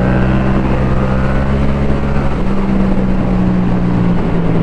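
Motorcycle engine running steadily at a held speed, with no revving up or down.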